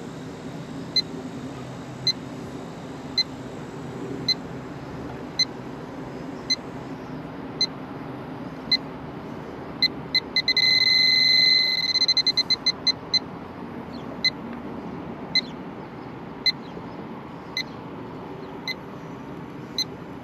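Electronic refrigerant leak detector beeping about once a second. About ten seconds in it speeds into rapid beeps and a continuous alarm tone for a second and a half, the sign that it has picked up leaking refrigerant, then slows back to its idle beat. A steady low hum runs underneath.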